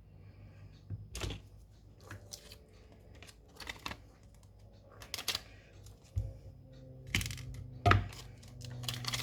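Scattered clicks and light knocks of small tools and phone parts being handled on a repair bench. A low steady hum comes in about six seconds in.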